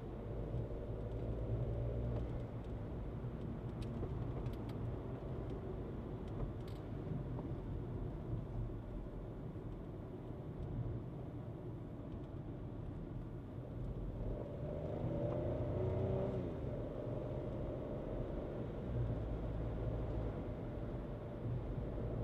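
Skoda Kushaq's engine running under way over a steady low road rumble. About two-thirds of the way through, the engine note rises for a couple of seconds, then falls back.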